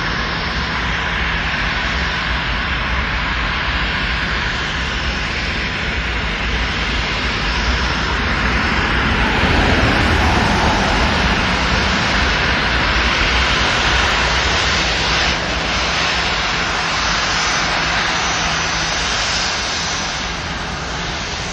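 Jet engines of an EA-37B Compass Call aircraft, a twin-turbofan Gulfstream G550 airframe, in a steady whooshing roar with a deep rumble. The noise swells to its loudest about ten seconds in as the aircraft passes, then eases off.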